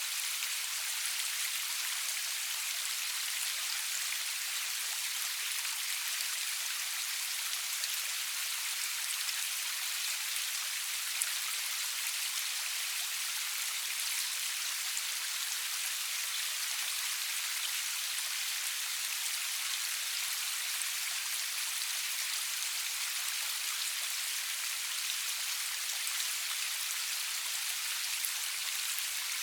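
Steady rain falling, an even hiss made of many fine drop patters, with no thunder.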